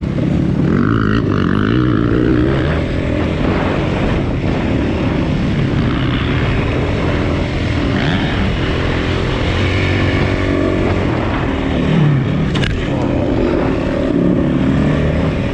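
Enduro motorcycle engine running at low to middling revs, heard from on the bike as it rides a dirt motocross track, its pitch rising and falling with the throttle. A brief knock about twelve seconds in.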